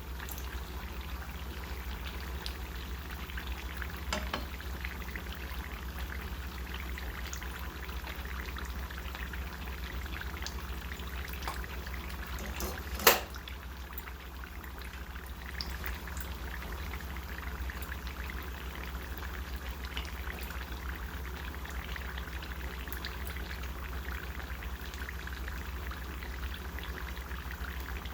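Spring rolls deep-frying in hot oil: a steady sizzle with fine crackling and popping. A single sharp knock comes about halfway through, over a steady low hum.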